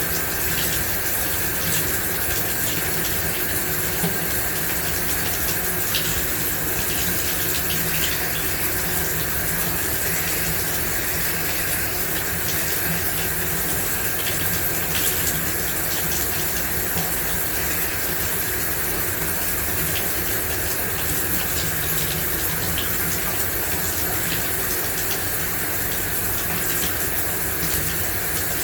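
Shower running: a steady, even spray of water with faint brief spatters now and then.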